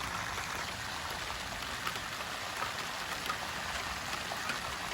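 Thunderstorm rain falling in a steady hiss, with scattered drop taps.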